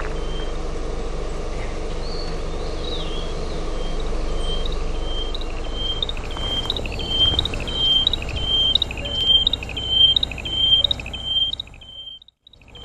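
A wild bird repeating a short high-pitched call phrase about twice a second over a steady low background rumble; the sound fades out briefly shortly before the end.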